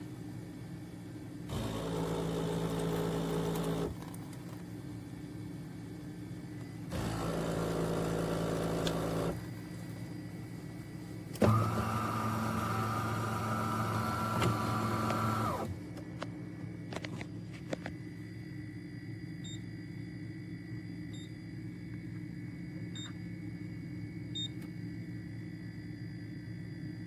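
Three bursts of a small electric motor whirring steadily, each two to four seconds long with pauses between, the last the longest and ending in a few clicks. Four faint short high beeps follow, evenly spaced.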